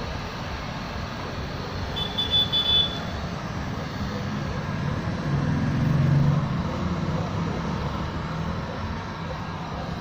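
Road traffic noise, with a motor vehicle's engine swelling louder as it passes about five to six seconds in. Three short high beeps sound about two seconds in.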